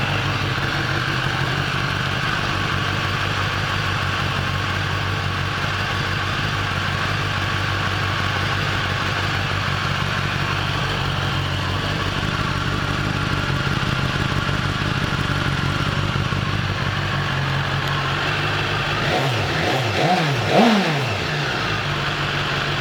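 2018 BMW S1000RR's inline-four engine idling steadily just after start-up, with a few quick revs about twenty seconds in.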